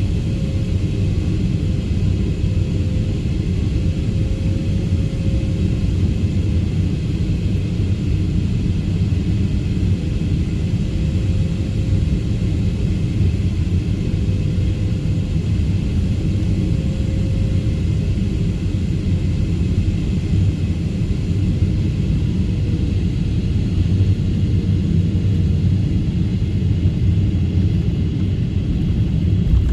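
Airliner cabin noise: the steady low rumble of jet engines and airflow, unbroken, with a faint hum above it.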